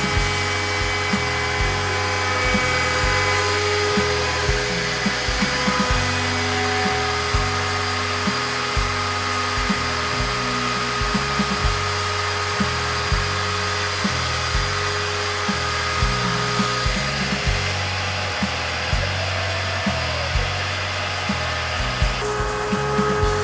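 Background music with a steady beat laid over a DIY CNC router's spindle whining as it cuts plywood, a steady machine noise with held tones throughout.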